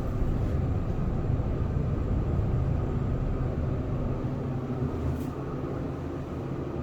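Schindler passenger elevator car in motion: a steady low hum and rumble inside the cab, with one faint click about five seconds in.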